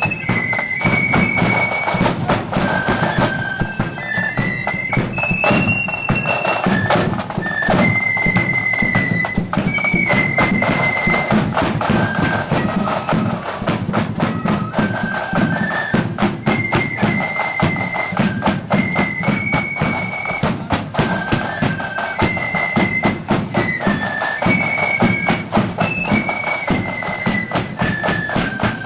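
Marching flute band playing a tune: flutes carry a high melody over rapid snare drumming and a bass drum.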